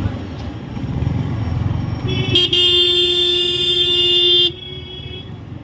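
A vehicle horn sounds one steady note, held for about two and a half seconds, starting about two seconds in and cutting off suddenly. Beneath it runs the steady low rumble of road and engine noise from a moving motorcycle.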